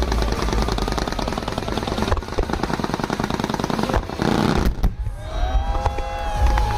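Fireworks crackling in a dense rapid rattle for about four seconds, followed by a short hiss and a couple of sharp bangs. Sustained musical notes come in over the last two seconds.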